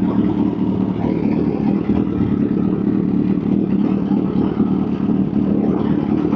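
Kawasaki H2's supercharged inline-four engine running steadily, without clear revving.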